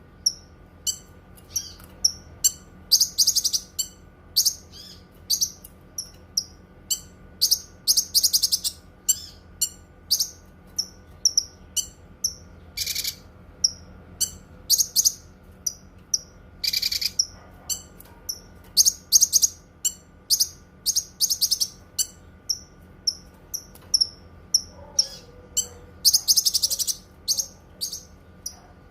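Cucak kinoi songbird singing: a fast, unbroken string of short, high chirps, broken every few seconds by dense trilled bursts, with a faint steady hum underneath.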